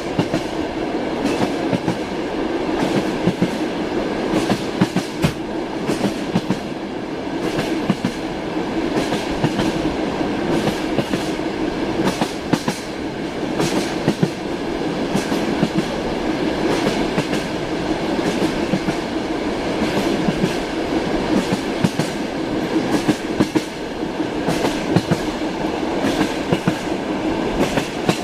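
A train running along the rails, heard inside a passenger carriage: a steady rumble with the irregular knocking and clatter of the wheels over the rail joints.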